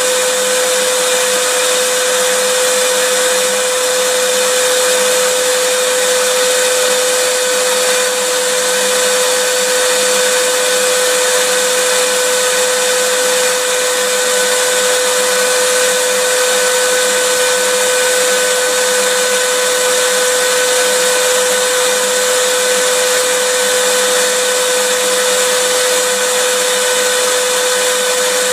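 Electric vacuum cleaner running steadily: an even rushing hiss with a fixed whining tone and no change in motor speed.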